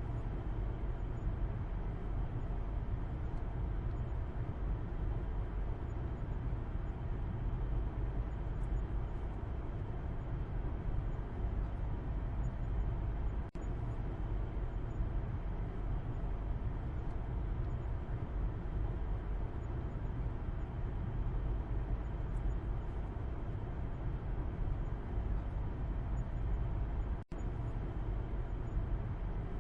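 Car interior noise heard from the back seat while driving: a steady low rumble of tyres and engine on the road. It drops out for an instant twice, about halfway through and near the end.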